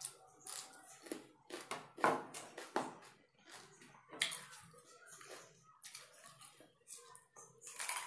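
Close-up crunching and chewing of raw cucumber and red radish: a string of crisp, irregular crunches, the loudest about two seconds in.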